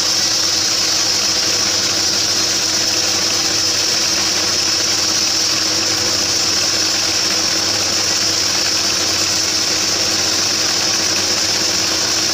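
Homemade band sawmill running steadily, an even mechanical hum with a strong high hiss that does not change.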